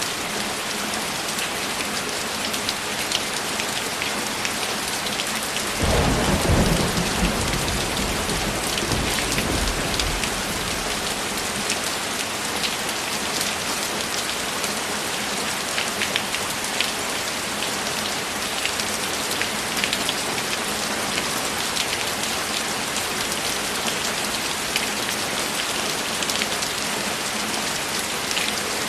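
Steady heavy rain with scattered drop ticks; about six seconds in a single roll of thunder rumbles up suddenly and dies away over about five seconds.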